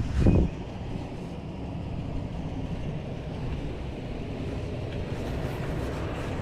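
Steady rush of high water pouring over a low-water dam, with wind buffeting the microphone; a brief loud low thump about a third of a second in.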